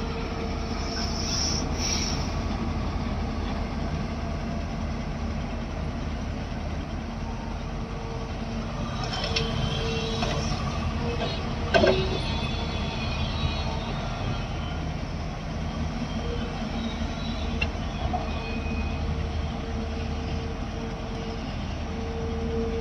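Backhoe loader's diesel engine running steadily under work, with an on-and-off whine. A single sharp metallic clank about twelve seconds in.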